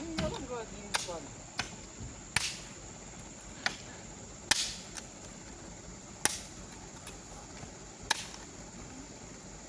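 A series of sharp snaps or clicks at irregular intervals, about eight in all, over a quiet background.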